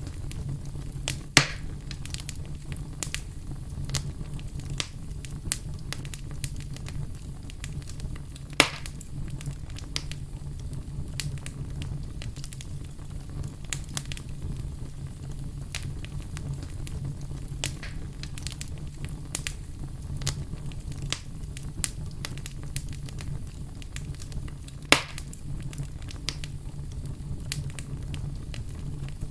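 Fire crackling, many small snaps over a steady low rumble, with three loud sharp pops: one about a second in, one about a third of the way through, one near the end.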